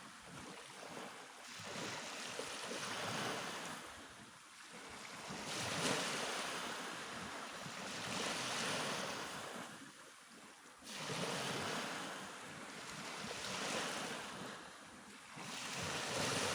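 Black Sea surf: waves breaking on the shore, the rush swelling and dying away every few seconds, with wind buffeting the microphone.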